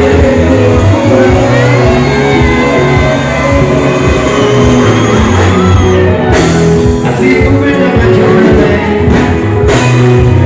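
Live band music with a singer, played loud through a PA, with a steady beat and sustained bass notes.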